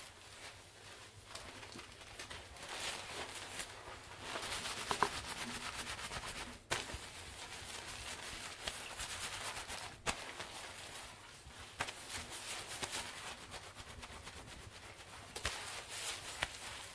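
Soft swishing and rustling of long wet hair being handled, coming in uneven waves, with two sudden short breaks.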